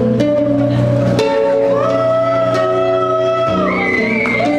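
Live acoustic music: acoustic guitar playing under long held melody notes that slide from one pitch to the next.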